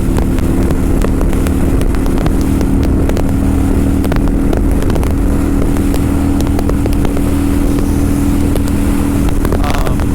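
Kawasaki Vulcan 900's V-twin engine and exhaust running at a steady speed under way, the pitch holding nearly constant, with road and wind noise.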